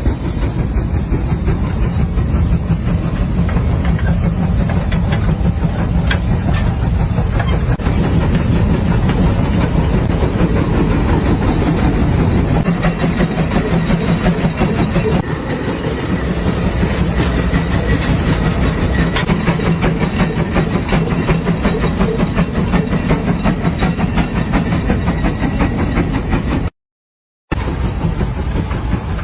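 Large steam tractor running steadily with a loud, dense, fast mechanical clatter, briefly cut to silence near the end.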